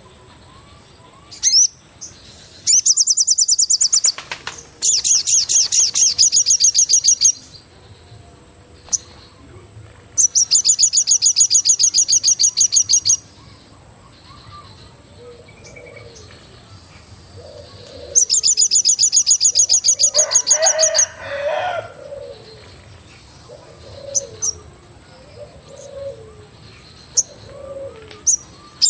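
Forest birds calling: loud, high-pitched rapid trills of two to three seconds each, repeated four times, with softer low calls repeating about once a second in the second half. A thin steady high whine runs underneath.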